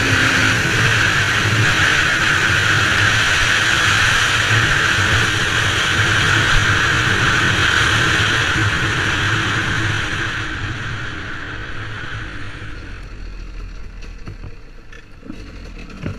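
Motorcycle engine running steadily at high revs, then fading away over a few seconds from about ten seconds in.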